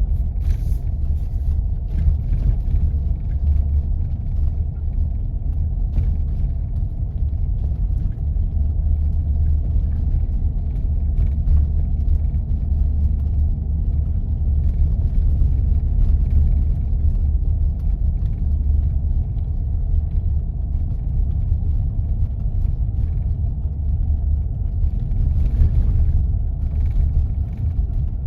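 Steady low rumble of a 4x4 driving on snow-covered back roads, with faint scattered ticks and clicks over it.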